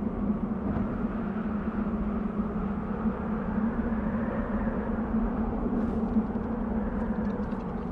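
Desert wind blowing steadily, a continuous low rush without gusts or pauses. Faint light ticks come through near the end.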